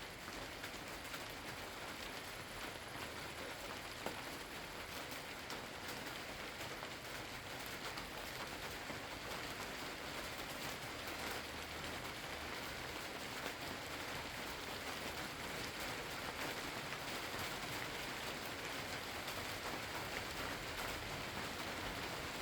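Steady rain falling: an even hiss of drops, with a few single louder drop strikes.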